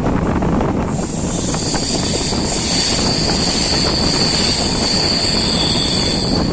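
Passenger train running over the rails with a loud, steady rumble, joined about a second in by a steady high-pitched wheel squeal that holds until near the end, typical of wheel flanges grinding on a tight curve.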